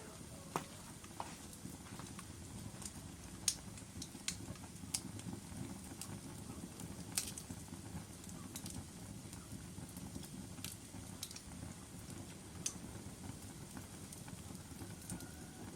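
Wood fire in a fireplace, a steady low rumble of burning logs with scattered sharp crackles and pops, a dozen or so in the stretch, some louder than the rest.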